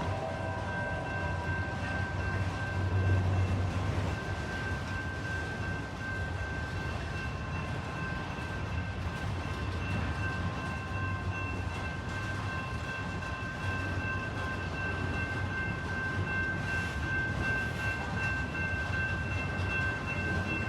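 Freight train rolling past: a steady low rumble of the cars on the rails, with a thin high-pitched whine held throughout.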